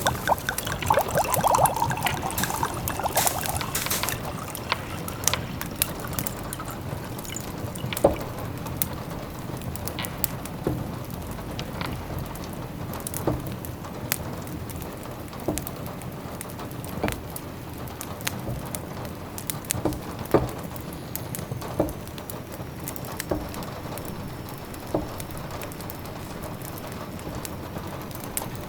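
Sound-effect ambience of steady rain mixed with the scattered sharp crackles and pops of a wood fire. A bubbling, pouring liquid sound is louder in the first few seconds.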